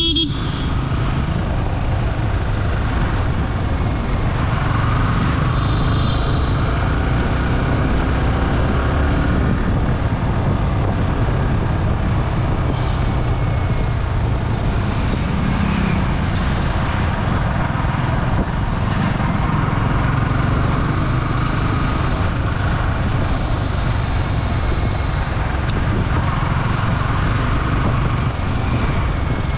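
Yamaha R15's single-cylinder engine running steadily while cruising in fifth gear at about 40 km/h, heard from the rider's position with road and wind noise and passing traffic.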